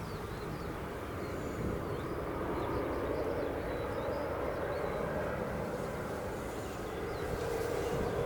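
Distant jet aircraft engines running, a steady rumble that swells a little through the middle, with faint bird chirps over it.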